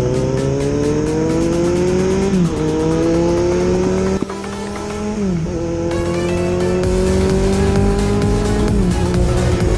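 Motorcycle engine pulling through the gears: its pitch climbs steadily, then drops sharply at each upshift, three times about three seconds apart.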